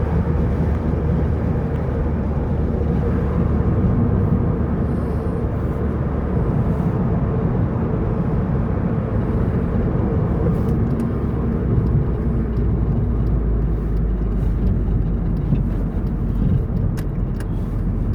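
A car driving on the road: a steady engine hum with road noise, the engine note shifting lower about halfway through.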